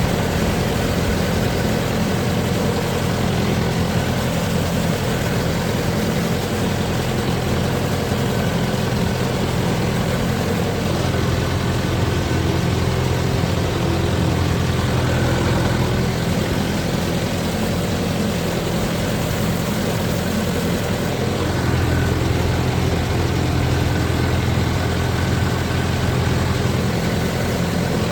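Tractor diesel engine running steadily at an even speed, with a deeper low rumble coming in about three quarters of the way through.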